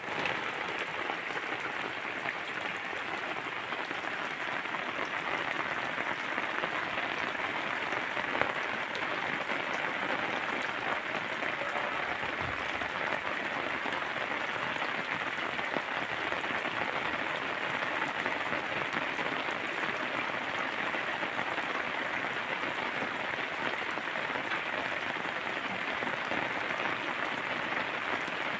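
Heavy rain falling steadily, an even hiss of many drops with no let-up, with one louder sharp drop or tap about eight seconds in.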